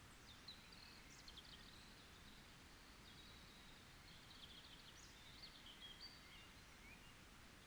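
Faint birdsong, high thin chirps and short trills through most of the stretch, over a steady low background hiss.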